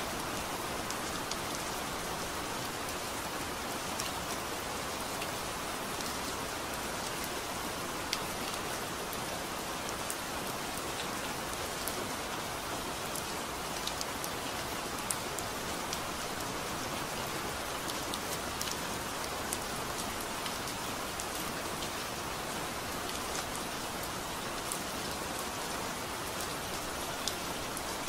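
Steady rain falling on broad tropical leaves, an even hiss with scattered sharp ticks of single drops.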